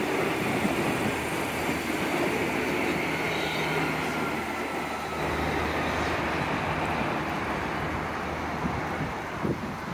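Transperth electric multiple-unit train running along the tracks, with a continuous rolling rumble. A steady low hum joins about three seconds in, and there is a short knock near the end.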